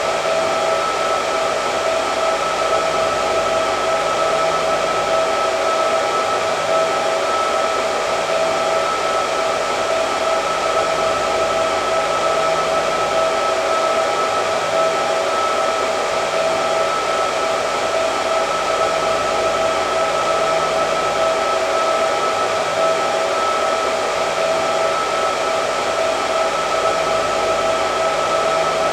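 Hair dryer running continuously: an even rush of blown air with a steady motor whine on top, unchanging in level.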